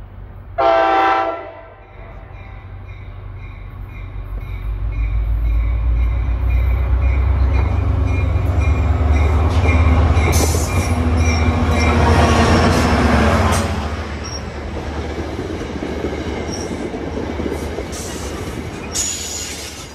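A Metro-North F40PH-3C diesel locomotive gives one short horn blast about a second in, then its engine rumble grows loud as it approaches and passes, with a thin high wheel squeal. The stainless-steel coaches then roll by with clattering wheels.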